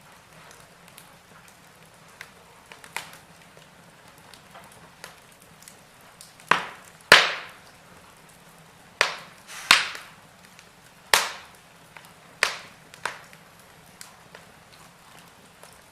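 Wood fire burning in a fireplace and crackling: faint scattered ticks, then a run of about seven sharp, loud pops in the middle.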